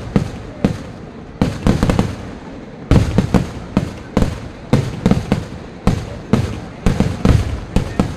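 Fireworks display: a rapid, uneven string of loud bangs, some coming in quick clusters, each followed by a low rumbling echo.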